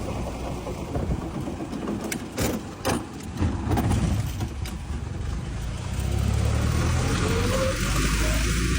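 Engine of a veteran car over a century old, running steadily with a few knocks, then getting louder about six seconds in.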